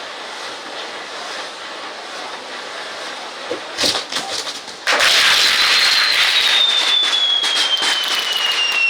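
Handmade set-piece fireworks burning: a hissing spray of sparks, a sharp crack about four seconds in, then from about five seconds a louder rushing hiss carrying a whistle that slowly falls in pitch.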